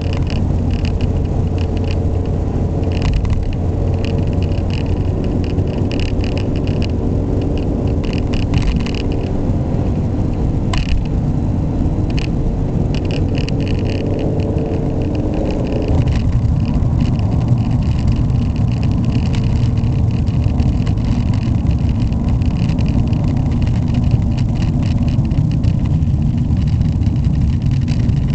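Ford Mondeo Estate's 1.6-litre petrol engine running steadily while driving, with tyre and road noise. A single sharp click comes near the middle. About sixteen seconds in, the engine tone changes and the low rumble gets louder.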